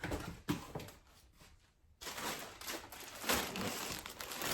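Groceries being handled and set down: a couple of light knocks, then rustling of packaging with small clicks from about halfway through.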